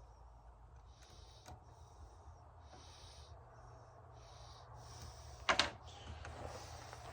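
A person breathing through the nose close to the microphone, short soft puffs about once a second. A single sharp clack comes a little past halfway, followed by light handling rattles.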